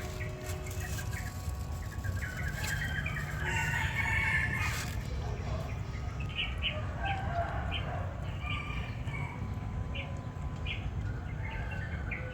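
Chickens: a rooster crows once about four seconds in, followed by a string of short clucks.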